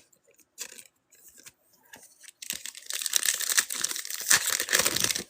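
A few faint taps, then a foil trading card pack wrapper being torn open and crinkled for about three seconds.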